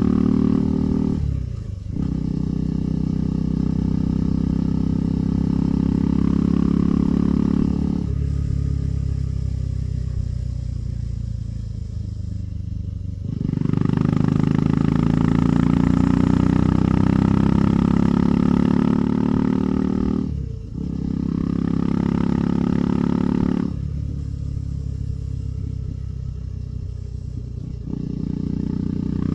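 KTM 390 Adventure's single-cylinder engine running under way as the rider rolls on and off the throttle, with louder pulls and quieter stretches of light throttle. The engine note dips sharply for a moment about a second and a half in and again around twenty seconds in, like gear changes.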